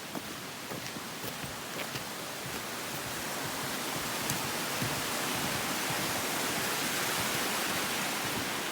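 Waterfall's rushing water: a steady hiss that grows gradually louder over the first several seconds, with a few faint ticks.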